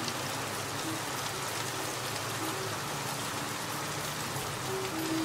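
Steady rain falling, an even patter with no change.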